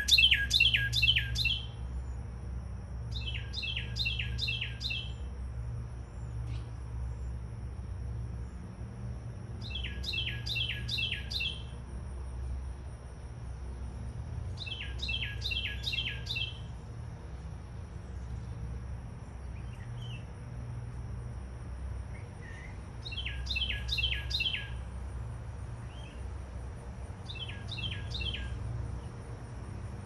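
A songbird singing six short phrases, each a quick run of four to six notes lasting about a second, spaced several seconds apart. Under it runs a faint steady high-pitched hum and a low rumble.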